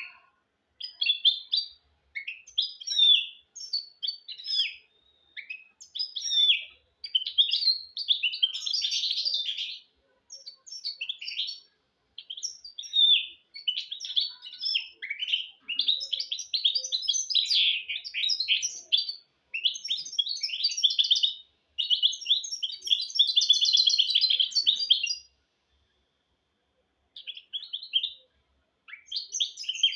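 Hybrid finch (mistou) singing a long, varied song of twittering phrases and fast trills, broken by a pause of about two seconds near the end.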